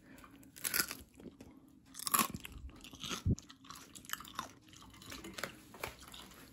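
Biting into and chewing a piece of air-fried pork belly with crisp, salt-dried crackling skin: a string of irregular sharp crunches, the loudest about two seconds in.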